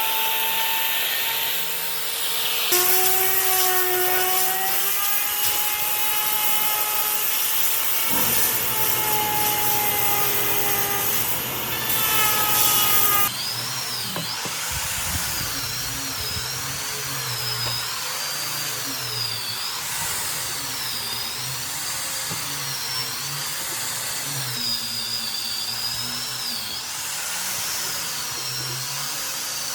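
Electric power tool running on wood, its motor whine shifting in pitch as the load changes. About 13 seconds in the sound changes to a high whine that wavers up and down over and over.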